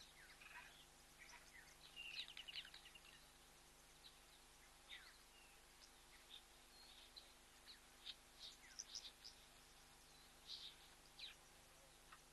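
Faint bird chirps and short calls, scattered irregularly, with a busier cluster about two seconds in and again around eight to nine seconds.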